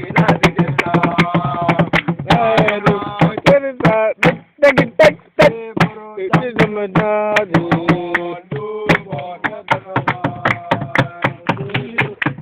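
Voices singing a chant over a steady percussive beat, about three strikes a second.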